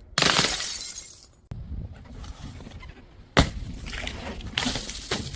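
Glass bottles smashing: a crash just after the start, a loud one about three and a half seconds in and another a second later, each followed by a trail of breaking and scattering glass.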